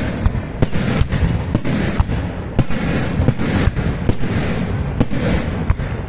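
A large festival bonfire burning: a steady rushing roar, broken by loud, sharp pops and bangs about every half second.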